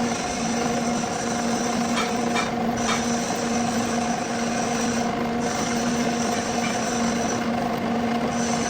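Metal-working lathe running while machining a steel pulley: a steady motor hum with a high whine that breaks off briefly three times, over a hiss of cutting noise.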